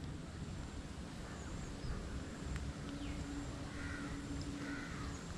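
Quiet outdoor ambience with a few faint, short bird calls in the second half.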